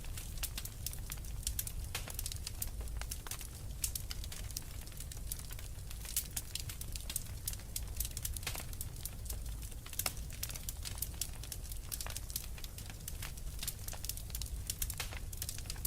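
Wood fire crackling and popping in a fireplace, with dense, irregular snaps over a steady low rumble.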